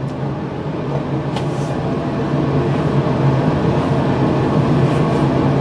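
Car engine and road noise heard from inside the cabin, a steady hum that grows gradually louder as the car drives.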